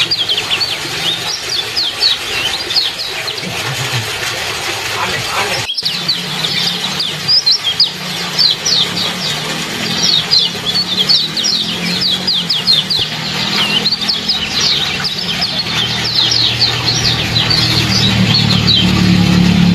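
Kecial birds chirping: a dense, continuous stream of quick, high, downward-sweeping 'ciak ciak' notes over trickling water, with a brief break about six seconds in.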